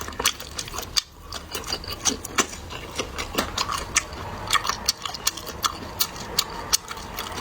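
Close-miked eating: chewing a mouthful of stir-fried pork belly, with many short wet mouth clicks coming irregularly, several a second.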